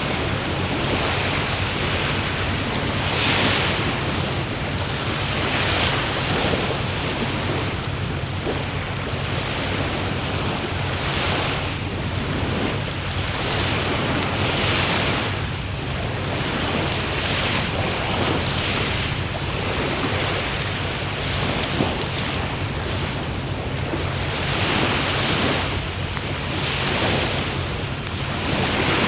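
Wood bonfire burning: a steady rushing of flames that swells and eases every few seconds, with an occasional faint crackle. A thin, steady high-pitched tone sits over it.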